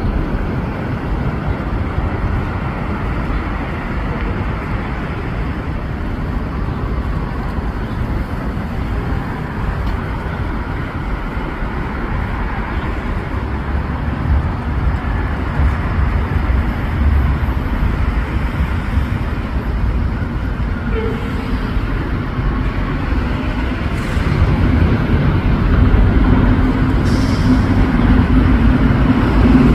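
Steady low vehicle rumble that grows louder about three-quarters of the way through, with a faint steady hum joining near the end.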